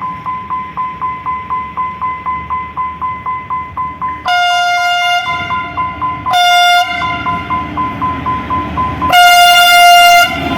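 Diesel locomotive air horn sounding three blasts, long, short, then long, as a train approaches. Under them a warning bell rings steadily, about three strokes a second.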